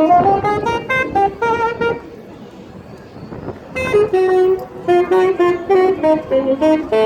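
A tune of short, separate pitched notes in two phrases, with a pause of about two seconds between them.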